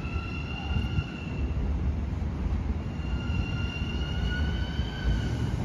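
LIRR M7 electric multiple-unit train pulling into the station: a low rumble of the train with a high, slightly rising squeal that sounds twice, through the first second and again for a couple of seconds after the middle.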